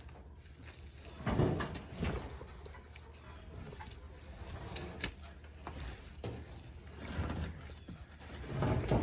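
Wooden mobile chicken coop being pushed and dragged on small wheels, giving a few knocks and scrapes over a low rumble.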